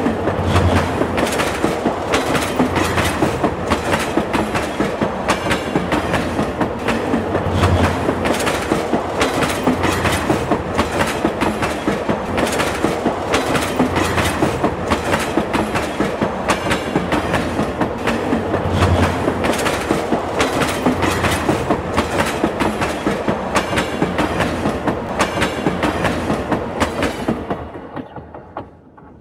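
Train running on rails, its wheels clattering rapidly over the track with dull low thuds every few seconds; it fades out near the end.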